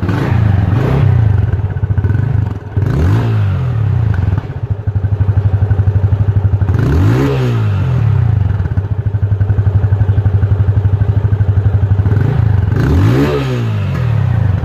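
Stock exhaust of a single-cylinder motorcycle idling, with about four quick throttle blips that rise and fall in pitch.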